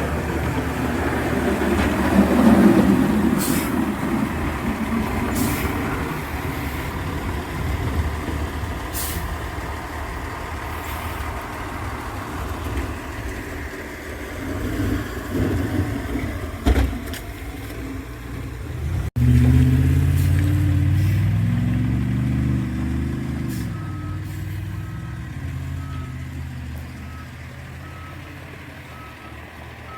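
Heavy truck running, with a few short hisses in the first part, then its engine pitch rising and falling. Over the last few seconds a reversing alarm beeps steadily, about once a second, as the truck noise fades.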